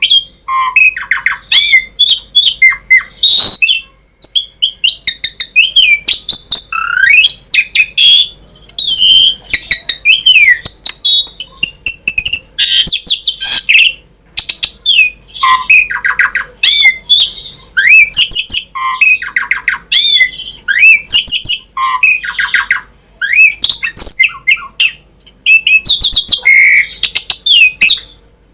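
An Asian pied starling (jalak suren) sings a long, varied song of whistles, pitch glides, harsh squawks and rapid chattering phrases. Its loud bursts are broken by brief pauses.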